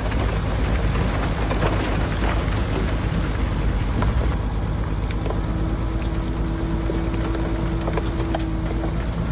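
Shantui DH17C3 bulldozer's diesel engine running steadily while working, with a dense rough crackle and scattered sharp clicks over it. A faint steady whine comes in about halfway through.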